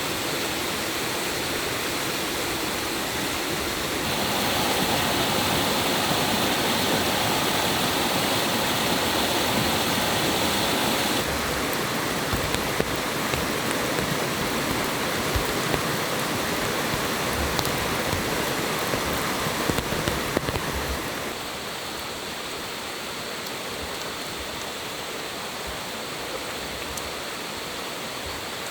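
Stream water rushing steadily, changing abruptly in level a few times, with a few faint knocks in the middle.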